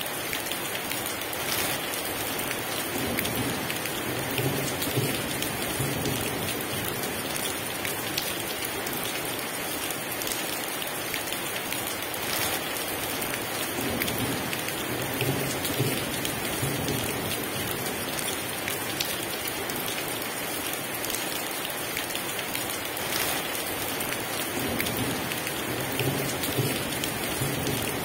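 Heavy rain pouring steadily, a dense hiss of drops on surfaces, with distant thunder rumbling low three times: a few seconds in, around the middle, and near the end.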